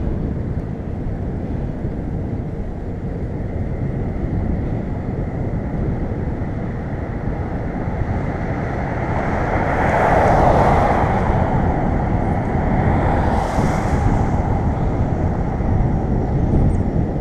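Wind rumbling steadily on the microphone of a moving bicycle. Road traffic swells and fades past twice, loudest about ten seconds in and again a few seconds later.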